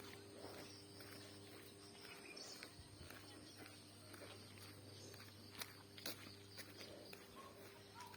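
Near silence: faint outdoor ambience with a low steady hum and a few soft, scattered clicks.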